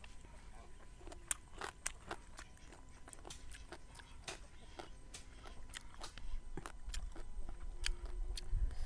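Close-up eating sounds: a person chewing a bite of prahok with crisp raw vegetables, a string of sharp crunches and bites. Near the end the crunching gives way to a low rumble and rustle.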